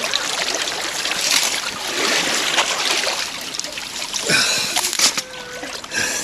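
Water splashing and trickling.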